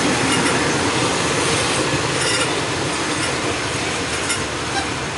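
Passenger express train rolling into a station, heard through an open carriage door: a steady rumble of wheels on the rails as the train draws along the platform.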